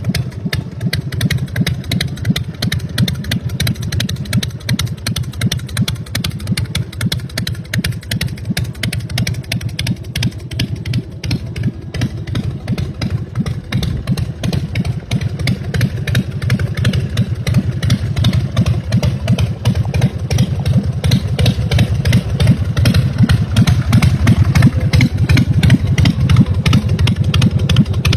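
American IronHorse LSC chopper's S&S V-twin engine running with a fast, uneven rumble of firing pulses, getting gradually louder over the second half.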